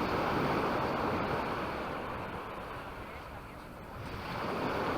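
Sea waves breaking and washing up a beach: one wave surges in at the start and fades over about three seconds, and the next breaks near the end.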